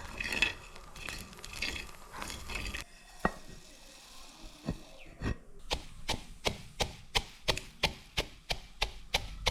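Kitchen prep sounds: a few seconds of stirring and scraping, then a knife chopping on a wooden cutting board in even strokes, about three a second.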